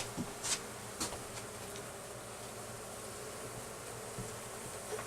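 A honey bee colony buzzing steadily while its frames are handled, with a few light clicks or knocks in the first second.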